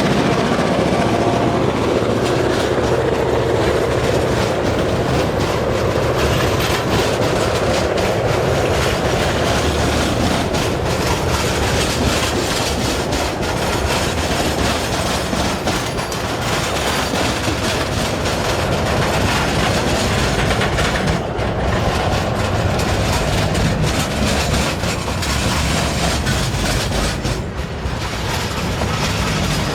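Freight train wagons rolling past with a steady clickety-clack of wheels over the rail joints.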